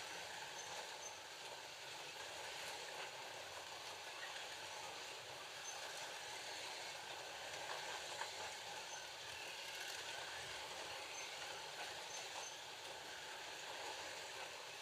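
Slot cars lapping a track: a steady whirring hiss from the cars' small electric motors and their tyres and guide braids on the track.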